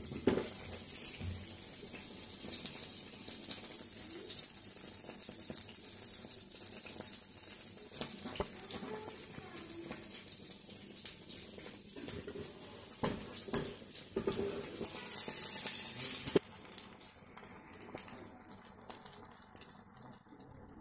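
Thalipith batter of dal and gram flour sizzling in oil in a nonstick pan, a steady high hiss that gets quieter near the end. A few sharp clicks and knocks, one as the glass lid is lifted at the start.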